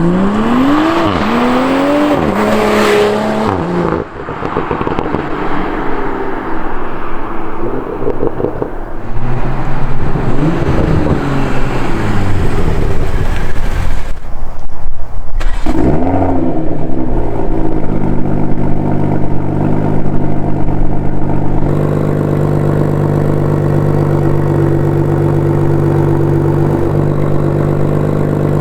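Tuned BMW M340i's turbocharged 3.0-litre inline-six, breathing through an M Performance exhaust, revving up and falling back several times, with a brief drop-off about halfway. It then settles into a steady idle for the last third.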